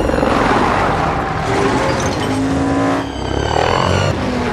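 Film action sound mix of several truck engines revving hard with tires squealing, loud and dense, with pitches shifting as the engines strain.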